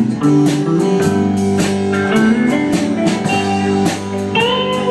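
Live country band playing an instrumental break between sung lines: electric guitar leads with bending notes over strummed guitar and a steady drum-kit beat.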